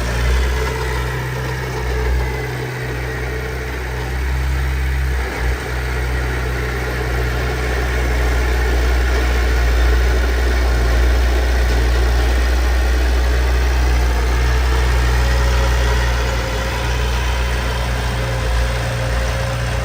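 Heavy construction machine's diesel engine running steadily with a deep, low rumble.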